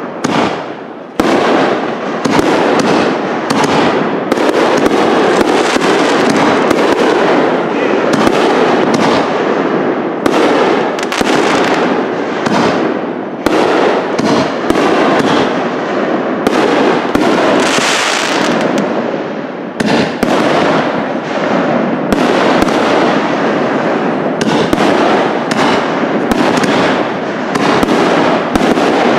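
Aerial fireworks shells bursting in a rapid, almost unbroken string of loud, echoing bangs, with a stretch of hissing crackle about two-thirds of the way through.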